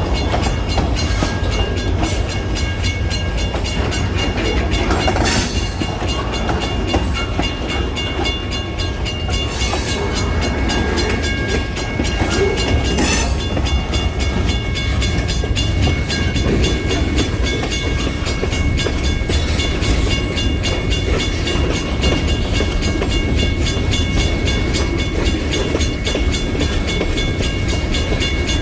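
Kiamichi Railroad freight cars rolling past close by: a steady rumble of steel wheels on the rails with rapid, regular clicks and thin, steady high ringing tones.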